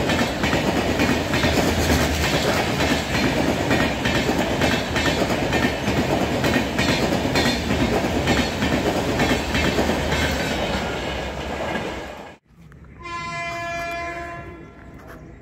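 Indian Railways LHB passenger coaches passing at speed: a steady rushing rumble with wheels clattering over rail joints. After a sudden cut, a train horn sounds one steady blast for about two seconds near the end.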